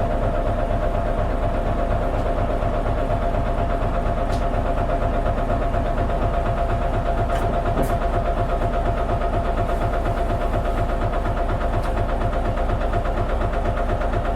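Diesel engine of an Isuzu Erga KL-LV280N1 city bus idling steadily, heard from inside the bus cabin, with no change in revs.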